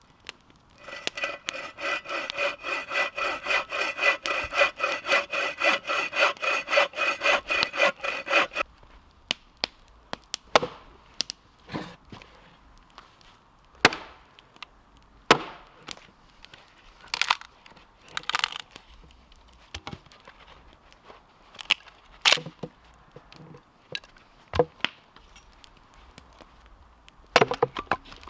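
Hand saw cutting through wood in quick, even strokes, about four a second, for roughly eight seconds, then stops. After that come separate sharp knocks and cracks of wood every second or two.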